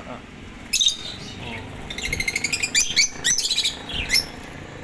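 Lovebirds chirping: a couple of high chirps about a second in, a quick run of rapid chirps around the middle, and another chirp near the end.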